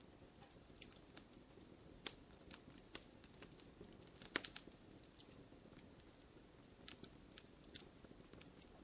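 Wood fire crackling in a fireplace: scattered sharp pops and snaps over a faint low hiss, with a quick cluster of louder pops about halfway through.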